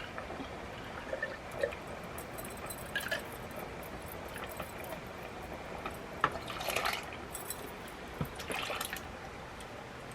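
Canned food and liquid being scraped and poured out of cans and a jar into a pot: a few short wet pours and scrapes, with a couple of sharp clinks.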